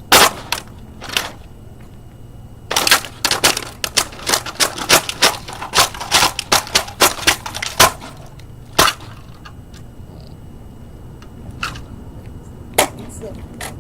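A rapid, irregular series of sharp cracks and knocks as a toy dollhouse is smashed. A few strikes come at the start, then a dense run of many blows, then a few scattered ones near the end.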